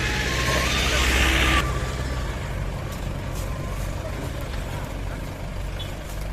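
Mahindra 575 tractor's diesel engine running steadily under load, with a loud hiss over the first second and a half that cuts off suddenly.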